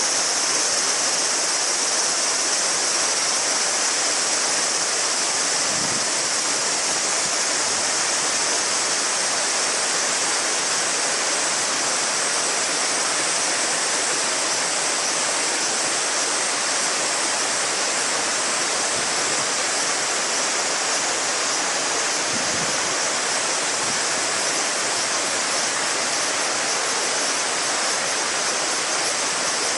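Shallow river babbling steadily over stones, with a continuous high-pitched cicada chorus over it.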